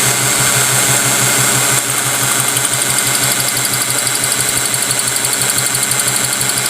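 2000 Ford Mustang engine turning over with a steady, rhythmic pulse. The engine has a cylinder 1 misfire. The pulsing becomes more distinct about two seconds in.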